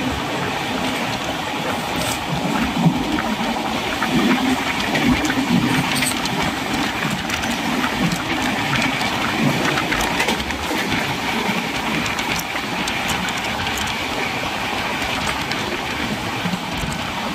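Steady running noise of a moving passenger train heard from its open doorway: the rumble of wheels on the rails mixed with rushing air.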